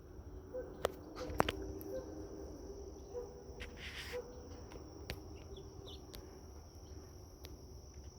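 Insects droning steadily on one high pitch, with soft short low notes about once a second and a few sharp clicks in the first couple of seconds and again about five seconds in.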